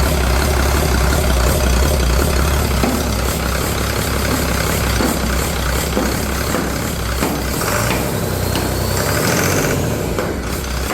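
2007 International MaxxForce DT 7.6-litre six-cylinder diesel engine running steadily on a test run.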